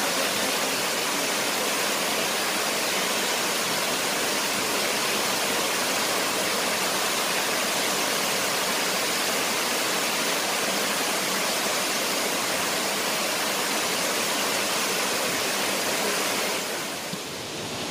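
Shifen Waterfall's steady roar of falling water, a dense even rush that drops a little in level near the end.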